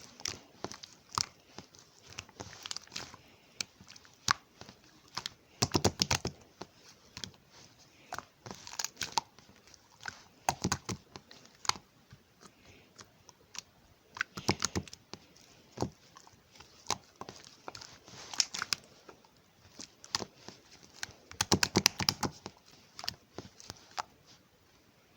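Hands squeezing and stretching milk slime, giving bursts of crackly, sticky popping clicks every few seconds with quieter squishing between them.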